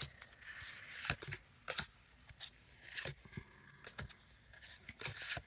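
Faint, scattered crinkles and clicks of a foil Pokémon booster pack and its cards being handled and opened.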